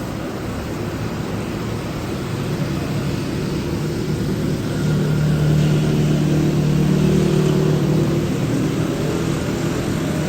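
A motor vehicle engine running steadily over background noise, getting louder about halfway through and easing off near the end.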